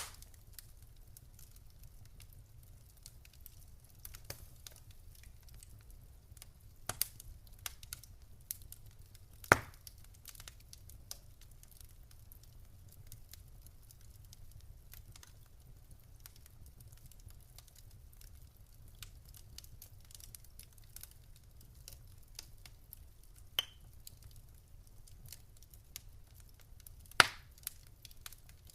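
Wood fire crackling in a fireplace: scattered sharp pops and snaps several seconds apart, the loudest right at the start, about ten seconds in, and near the end, over a faint low steady hum.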